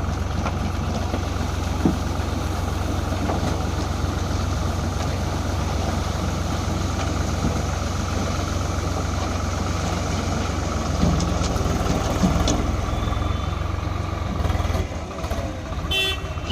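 Heavy diesel engine running steadily with a deep, constant drone, and a short horn toot near the end.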